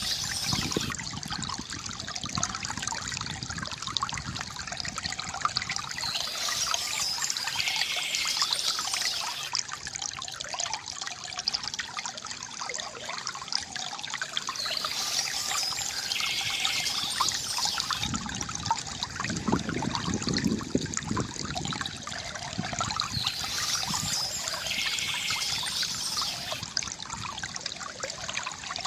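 Water from a bamboo fountain trickling and gurgling steadily, swelling briefly past the middle. Birds chirp in short spells about every eight or nine seconds.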